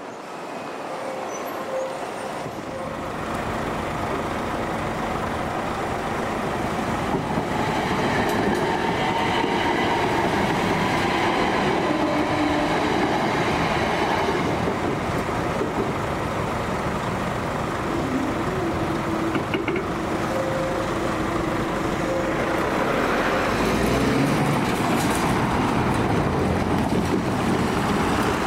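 c2c Class 357 Electrostar electric multiple unit running past over the level crossing: a steady rumble of wheels on the rails that builds over the first few seconds, with a whining tone that rises and falls at times.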